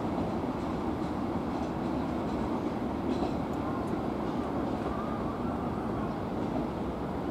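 Semboku Rapid Railway 3000 series electric train running through the station, a steady rumble of wheels on rail and running gear.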